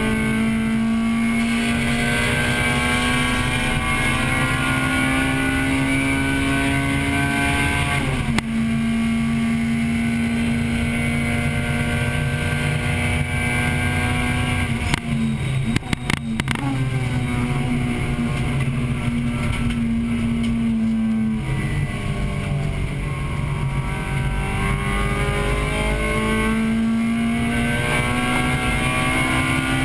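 Racing 1998 Acura Integra Type-R's four-cylinder VTEC engine heard from inside the cabin, pulling hard at high revs. Its pitch climbs steadily, drops suddenly about eight seconds in and again about two-thirds of the way through, with a few sharp clicks around the middle. It then climbs once more near the end.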